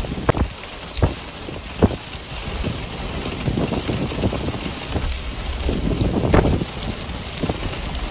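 Heavy wind-driven rain falling on open stony ground, with gusts buffeting the microphone in a low rumble and a few sharp knocks scattered through.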